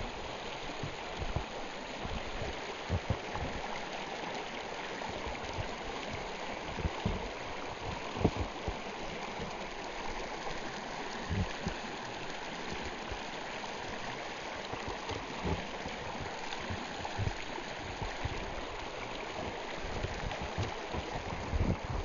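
Stream water running steadily, with scattered short low thumps.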